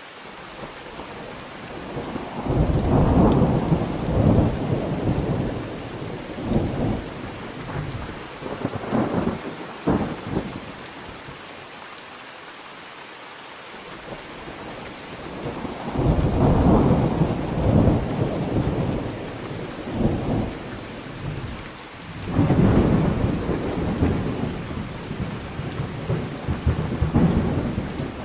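Thunderstorm: steady rain falling, with rolling thunder coming in three long rumbles, the first starting about two seconds in and ending with a sharp crack, the others in the second half.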